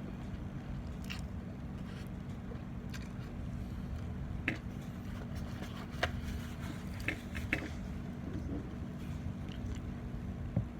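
A person eating, with about five short sharp clicks and crunches from biting and chewing spread through, over a steady low hum.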